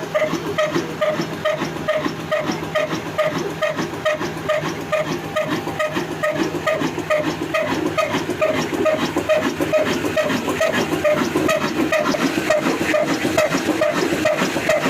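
22 HP diesel engine running steadily, with a slow, even beat of about three strokes a second.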